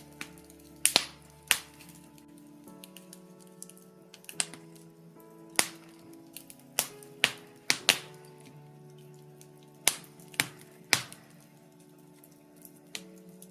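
Birch log fire crackling, with a dozen or so sharp, irregular pops and snaps. Soft music of held, slowly changing chords plays underneath.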